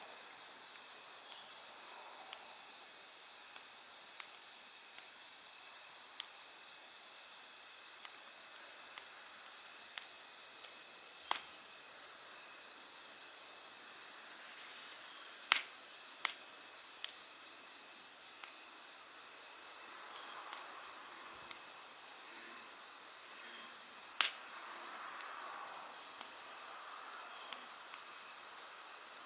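Crickets or other night insects trilling in a steady high-pitched chorus, with a pulsing chirp about once a second. A wood campfire gives a handful of sharp pops and crackles, the loudest a little before the middle and again later on.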